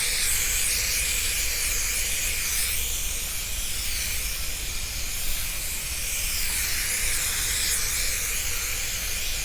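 Spray adhesive hissing in a steady, continuous spray, coating the headliner board before the suede is glued down.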